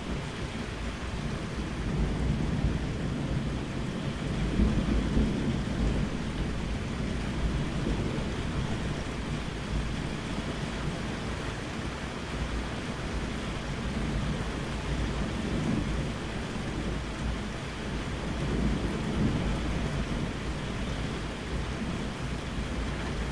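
Steady rain with low rolling thunder rumbling in and out several times, swelling loudest about five seconds in and again around fifteen and nineteen seconds.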